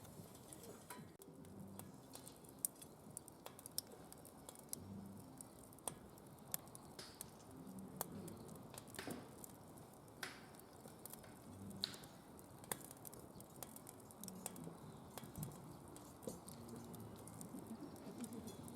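Firewood crackling and popping in a DOD Mecha Moe Fire secondary-combustion fire pit: irregular sharp snaps, a few louder than the rest, over a low hiss of burning.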